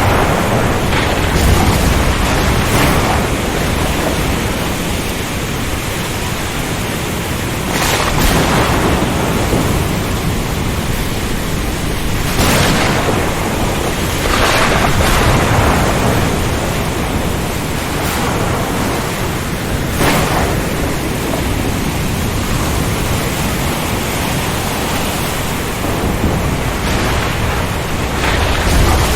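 Storm at sea: a dense, steady rush of wind and rain with louder surges every few seconds.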